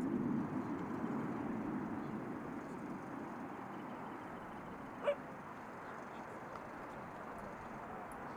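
Distant jet aircraft noise, a rumbling haze that slowly fades away. A single short, sharp click comes about five seconds in.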